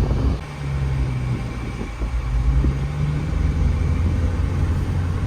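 A vehicle engine running with a steady low drone, its pitch drifting slightly; the sound changes abruptly about half a second in.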